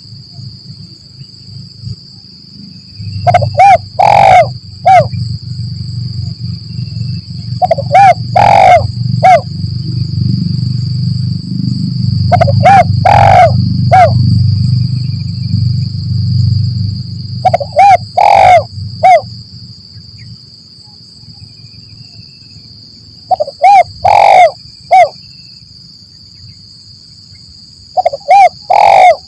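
Spotted dove (tekukur) cooing: a short phrase of three or four coos, one louder than the rest, repeated six times about every four to six seconds. It is a vigorous lure call used to draw in wild doves. A steady high-pitched whine runs underneath, with a low rumble during the first two-thirds.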